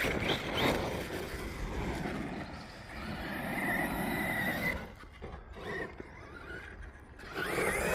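Team Corally Kagama RC stunt truck's electric motor whining as the truck drives, with rough running noise from the dirt track. The sound drops quieter for a couple of seconds, then the motor whine climbs sharply as the truck accelerates near the end.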